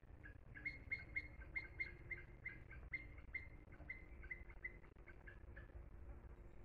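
A small bird chirping, a fast run of short, high chirps about four a second, faint and outdoors; it breaks off about two-thirds of the way through.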